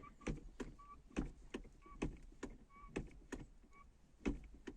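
Manual gearbox shift lever of a Lada Vesta NG creaking as it is worked back and forth: a run of short, high squeaks, roughly two a second, with knocks in between. The creak persists although the lever has been lubricated with WD-40 and motor oil.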